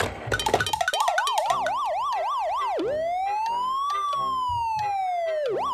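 Police siren: a fast yelping warble, then one slow wail that rises and falls, then the fast yelp again. A quick run of clicks comes in the first second.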